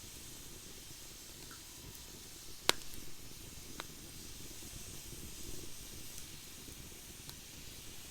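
Campfire burning in a fire pit: a steady soft hiss with one sharp, loud crack a little under three seconds in and a couple of fainter pops later.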